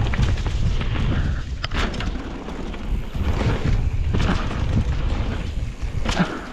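Wind buffeting the microphone of a camera carried by a mountain biker riding downhill, with a few sharp rattles and knocks from the bike over rough trail, the clearest near the middle and near the end.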